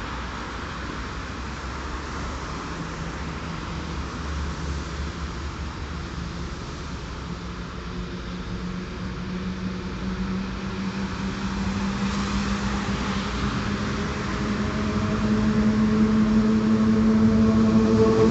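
Electric locomotive hauling a passenger train approaching along the track, its noise growing steadily louder over a background of road traffic. A steady hum builds in strength, and a higher pitched whine joins it near the end as the locomotive comes alongside.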